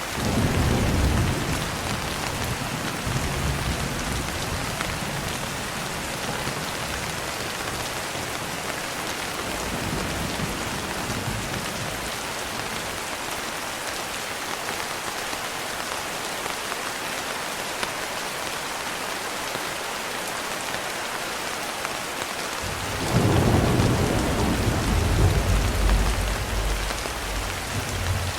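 Steady rainfall with rolling thunder. A rumble swells at the start and fades over a few seconds, a fainter one follows, and a louder, longer roll comes near the end.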